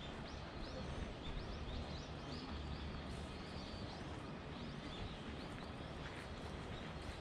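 Small birds chirping in quick, short, high calls, many in a row, over a steady low background rumble.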